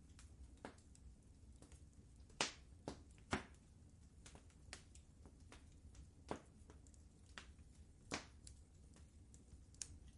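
Wood fire crackling in a fireplace: irregular sharp pops and snaps, the loudest about two and a half seconds in, over a low steady rumble.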